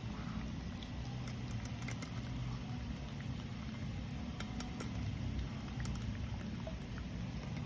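Shih tzu eating from its bowl: scattered light clicks and clinks over a steady low hum.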